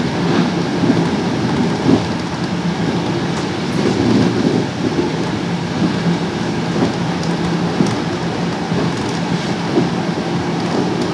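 Train running along the tracks: a steady rumble of wheels on rails with scattered short clicks.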